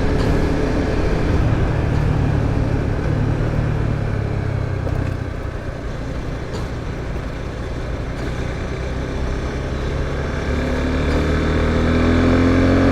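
Suzuki Gixxer 250's single-cylinder engine pulling the motorcycle along at road speed, with wind rushing past. The engine eases off in the middle and then picks up, rising in pitch as it accelerates near the end.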